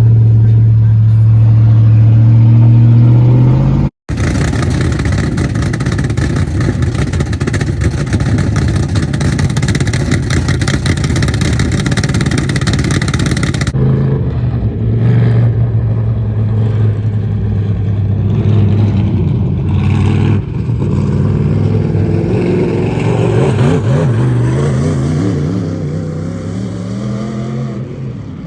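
Dirt-track race car engines running on the track. A steady, loud engine note for the first four seconds, then after a sudden break a dense, noisy engine sound, and from about 14 seconds on engines rising and falling in pitch as they speed up and slow down.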